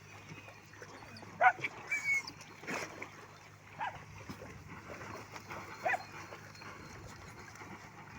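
Shelter dogs yelping and whining in short calls a second or two apart, the loudest about one and a half seconds in.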